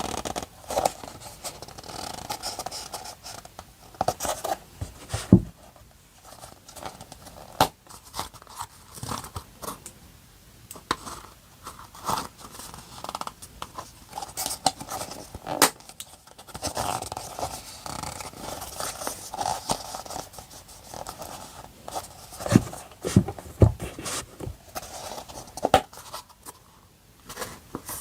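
Close-up paper and sticker handling during journal decorating: rustling and scraping with many sharp clicks and snips, and a few louder taps on the desk, two of them close together near the end.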